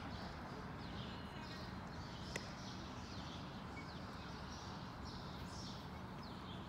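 Ballpark ambience: birds chirping repeatedly over a steady low hum. About two and a half seconds in, a single sharp smack of a baseball landing in a leather glove.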